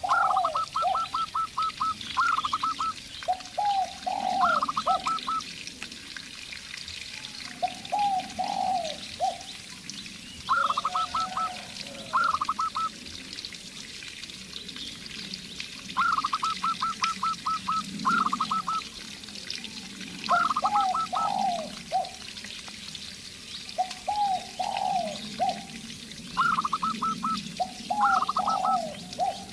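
A zebra dove (perkutut) and a spotted dove (tekukur) calling back and forth. The zebra dove gives quick runs of short, high staccato coos, and the spotted dove answers with lower groups of three or four falling coos. They repeat about a dozen times over a steady low hum.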